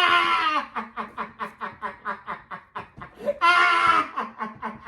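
A person laughing hard: a rapid run of short laughs, about five a second, with a long high-pitched squeal at the start and another about three and a half seconds in.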